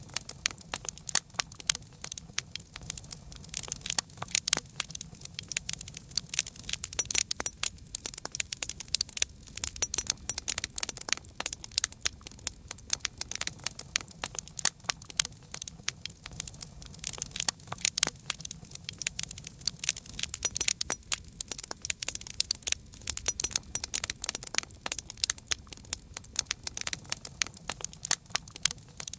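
Wood fire crackling, with many sharp irregular pops and snaps over a low steady rumble of flames.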